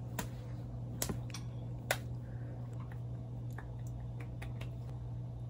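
A child's slow hand claps, about one a second and sharpest in the first two seconds, then fainter, quicker ones, over a steady low hum.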